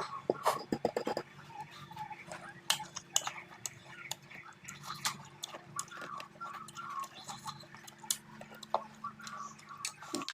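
Chewing and crunching of raw gooseberries eaten with chili and salt: an irregular run of crisp clicks and crackles, with a tight cluster of sharper ones about half a second in.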